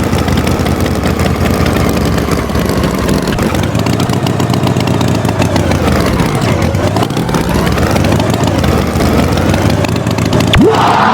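Engine running steadily, its pitch dipping and then rising again partway through, with a quick rising whistle-like sweep near the end.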